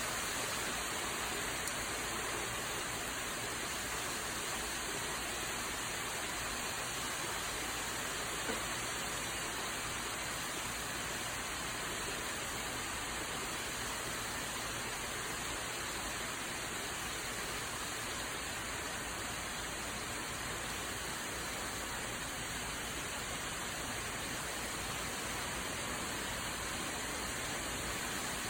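Steady rain shower falling, an even hiss of rain with no letup.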